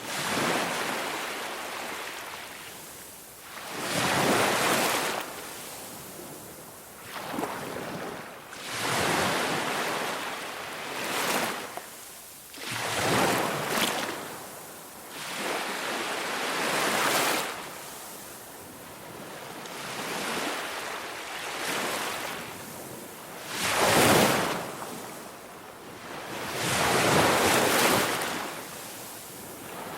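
Ocean surf: waves wash in and recede in a swelling hiss, one surge every two to four seconds.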